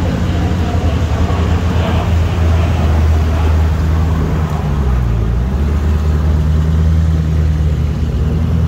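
Koenigsegg Agera RS's twin-turbo V8 running at low revs as the car pulls away slowly. Its note drops a little about halfway through, then steps back up.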